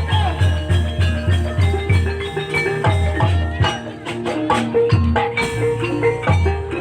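Javanese gamelan music in campursari style accompanying an ebeg dance: struck mallet instruments play a ringing melody over a steady low drum beat.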